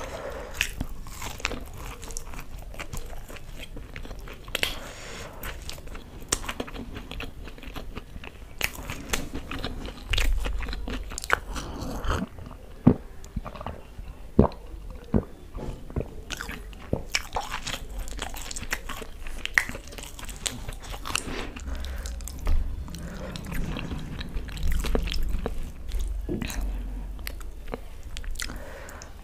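Close-miked biting and chewing of batter-fried pakoras in green chutney: crisp crunches and wet, sticky mouth sounds throughout, with gulps from a steel tumbler about halfway through.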